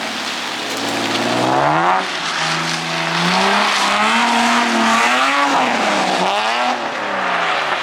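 Car engine revving during a drift on a wet track: the revs climb and drop several times over a steady hiss of tires on the wet surface.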